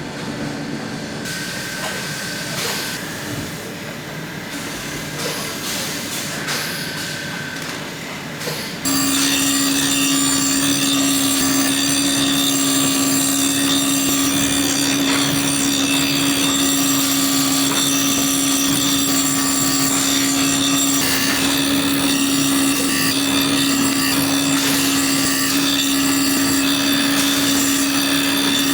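Boot-workshop sounds: mixed handwork noise at first, then about nine seconds in a machine starts running, loud and steady, with a constant low hum and a whine of high tones.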